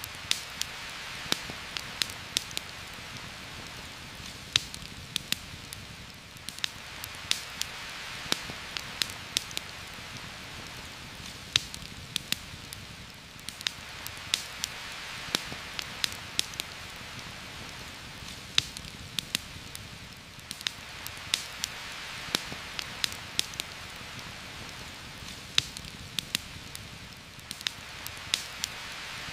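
Heavy rain falling steadily, its hiss swelling and easing every several seconds, with frequent irregular sharp pops and ticks over it.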